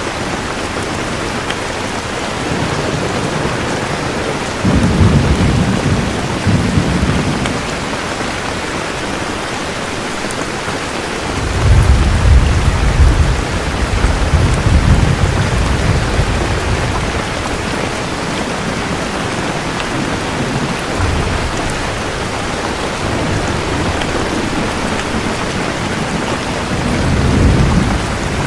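Steady rain with rolling thunder: a rumble about five seconds in, a louder, longer one around twelve seconds that lasts several seconds, and a fainter one near the end.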